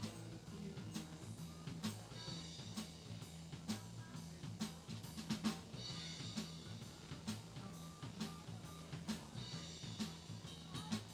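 Live band playing: a drum kit keeps a steady beat with bass drum and snare over a stepping bass line.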